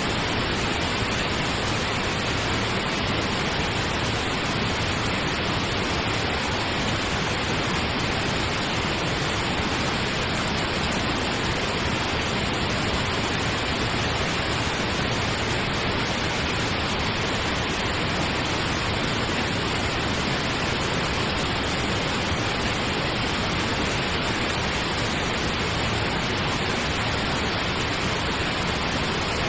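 Steady pink noise: an even, unchanging hiss with more weight in the low and middle range than the top.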